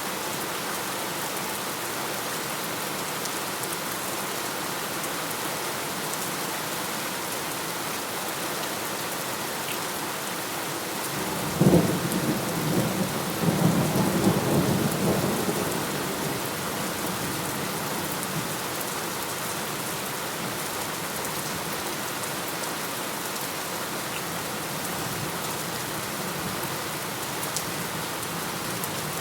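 Steady rain falling throughout. A sudden clap of thunder comes about a third of the way in and rumbles for four or five seconds before fading back under the rain.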